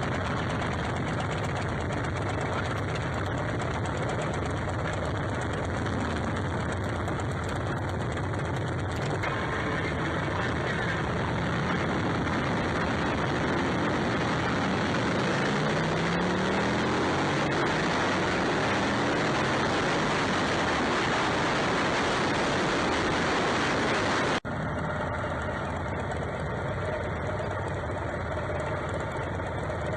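Motorcycle engines running continuously. About halfway through, an engine note rises in pitch as a bike accelerates. The sound changes abruptly about three-quarters of the way in.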